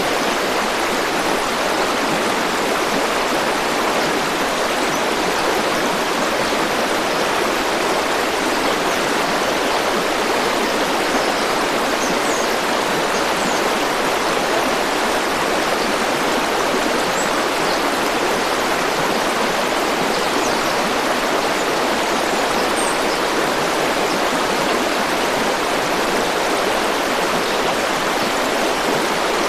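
River water rushing and flowing steadily, an even, unbroken wash of sound, with a few faint high chirps here and there.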